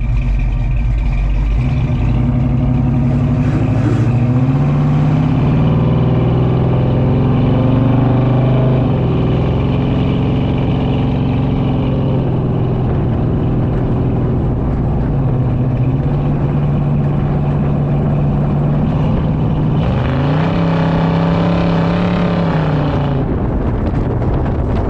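Chevy C10's small-block 350 V8 running through a new 2.5-inch stainless exhaust with Flowmaster 40 Series mufflers, its note stepping up and down at moderate revs, with a rise about three-quarters of the way through that falls back a few seconds later.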